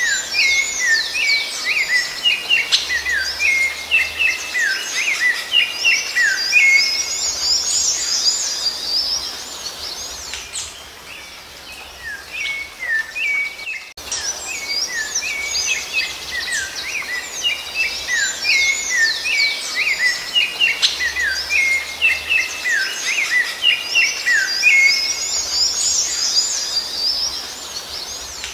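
Rufous-bellied thrush (sabiá-laranjeira) song: rapid runs of short, sliding whistled notes for about ten seconds, a brief lull, then the same passage again, as a looped recording.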